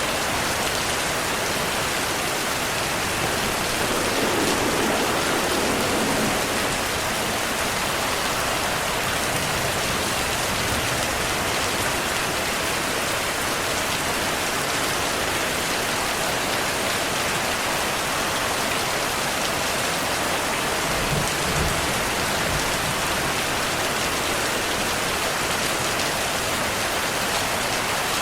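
Heavy rain falling steadily, a dense even hiss of drops on surfaces. Twice there is a brief low rumble of thunder, a few seconds in and again about two-thirds of the way through.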